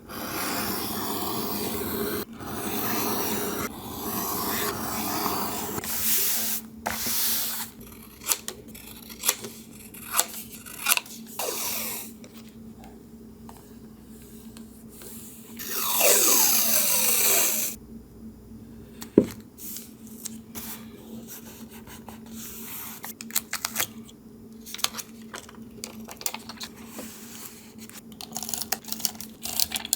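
Paper-collage crafting sounds: paper rubbing and rustling for the first several seconds, then many small taps and clicks of paper and tools being handled. About halfway through comes a ripping sound, roughly two seconds long and falling in pitch.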